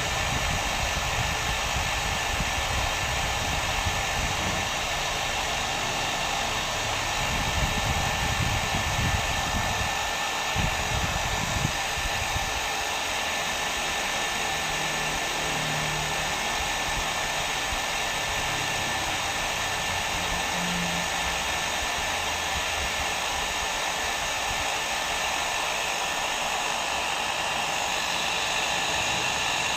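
Hair dryer blowing steadily: a constant rushing whoosh of air with a faint steady whine from the motor, used as white noise to help a baby sleep.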